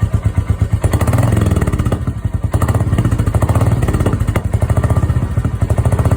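Royal Enfield Classic 350 Reborn's single-cylinder engine, running through a stock exhaust fitted with a flap, thumping evenly at idle. The throttle is blipped about a second in and again for a couple of seconds from about two and a half seconds, then the engine settles back to idle.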